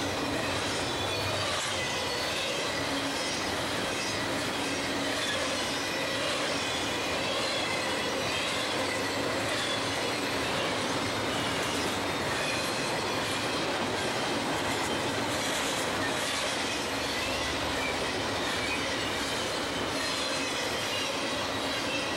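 Double-stack intermodal container train rolling steadily past: a continuous rumble and rattle of steel wheels on the rails and freight cars, with faint high-pitched tones running through it.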